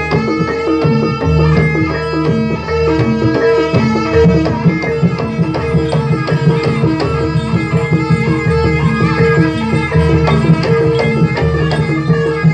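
Javanese jaranan accompaniment music, with hand drums beating a brisk, even rhythm under gamelan-style pitched percussion and a held tone.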